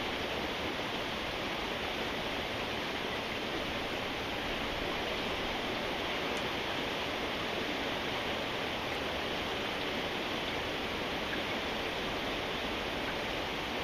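Steady rainfall: an even, unbroken wash of rain noise with no separate drops or other events standing out.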